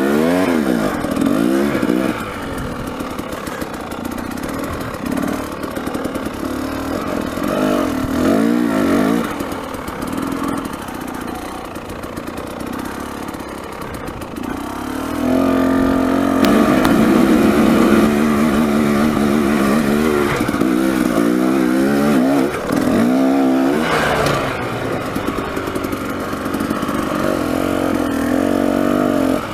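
Dirt bike engine revving up and down on a hill climb, with the throttle blipped on and off. It gets louder and stays at high revs from about halfway through.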